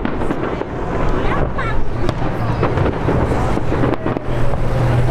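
Fireworks popping and crackling at a distance over crowd chatter and wind on the microphone, with a steady low hum coming in about halfway through.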